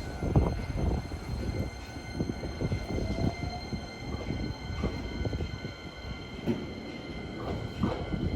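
Hankyu Kyoto Line electric train running by, a steady rumble broken by many irregular knocks and clatter from wheels on rails, with a faint steady high whine above it.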